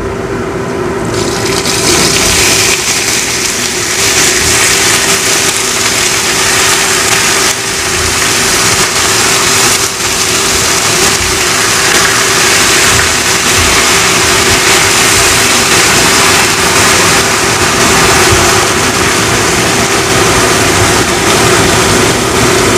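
Raw chicken pieces sizzling loudly as they are dropped by the handful into hot sesame oil and fried ginger in a steel wok. The sizzle swells about a second in and then runs steadily, over a steady hum.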